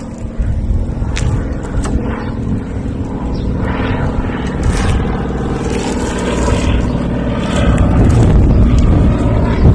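A motor running steadily, getting louder over the last couple of seconds, with a few sharp clicks in the first two seconds.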